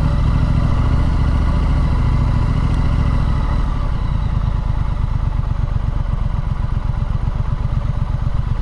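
Triumph Street Scrambler's 900 cc parallel-twin engine running as the bike is ridden, its note dropping to a lower, pulsing beat about halfway through.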